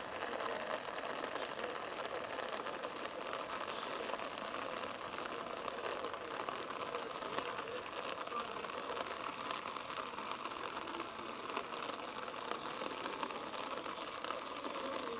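Distant players' voices calling across a rugby field over a steady outdoor hiss, with a brief higher hiss about four seconds in.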